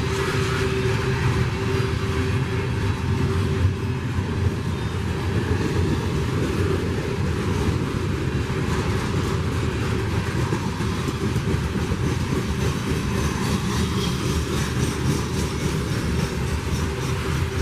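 A train passing, with a steady noise of wheels on rail running throughout.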